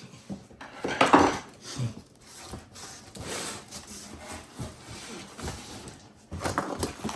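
Light knocks, clicks and rubbing of a built-in microwave being handled and opened in its kitchen unit, with a louder clatter about a second in and a few more knocks near the end.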